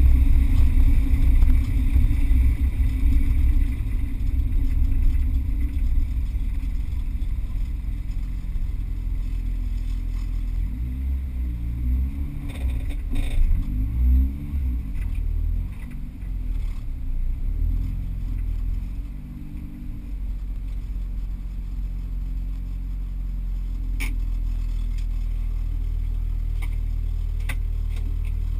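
Car engine heard from inside the cabin while driving, its note rising and falling with the throttle in the middle stretch, then settling into a steady idle for the last several seconds. A few light clicks near the end.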